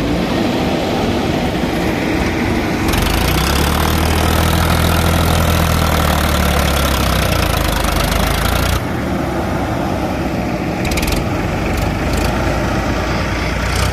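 JCB 3DX backhoe loader's diesel engine running, rising to a louder, harder note from about three seconds in, then dropping back abruptly to a lower run near nine seconds, with a few light clicks after.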